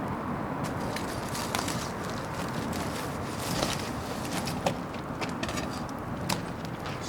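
Wood bonfire burning, a steady rushing hiss with irregular sharp crackles and pops.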